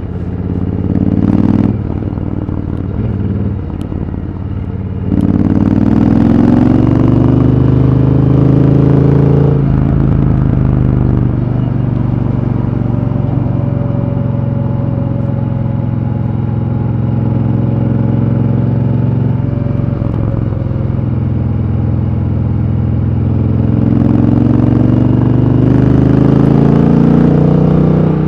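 Triumph Thunderbird Storm's 1700 cc parallel-twin engine under way at speed: about five seconds in it gets louder and the pitch climbs under acceleration until a shift around ten seconds, then it runs steadily at cruising speed before climbing again near the end.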